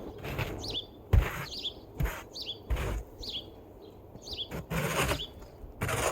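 A small bird chirping over and over, each call a short, quick downward-sliding note, over a low outdoor rumble. A few short scraping or knocking noises come in between, the loudest about a second in.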